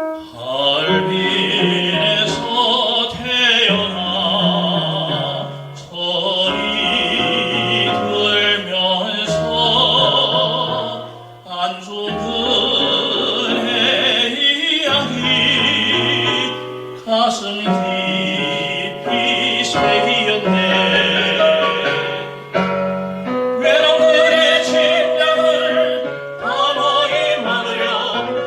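A song sung in a classical, operatic voice with wide vibrato over piano accompaniment, in several phrases with brief pauses between them.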